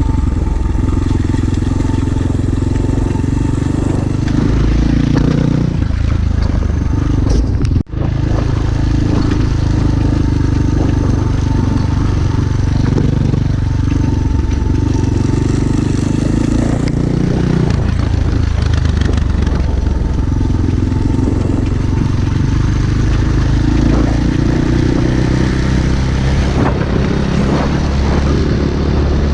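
Small pit bike engine running under way, its pitch rising and falling as the throttle changes, with a brief break about eight seconds in.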